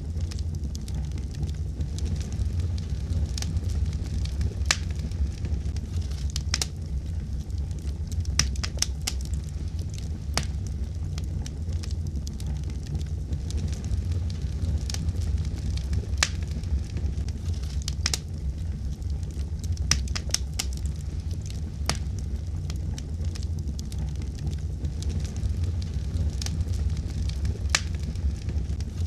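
Fire in a fireplace crackling, with sharp pops at irregular intervals over a steady low rumble.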